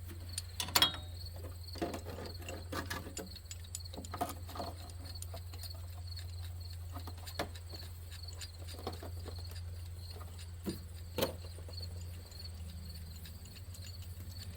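Scattered clicks and knocks of hand tools and parts handled on metal, the loudest about a second in, over a steady low hum and crickets chirping evenly.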